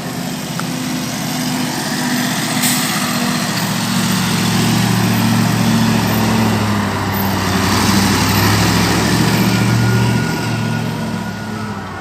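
Heavy diesel engine running, getting louder and heavier about four seconds in, holding there, then easing off near the end.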